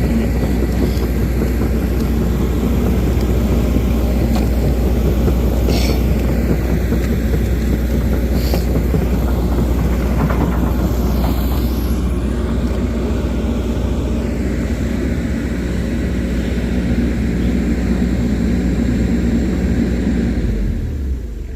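A heavy vehicle's engine running steadily with a deep, even rumble, which drops away shortly before the end.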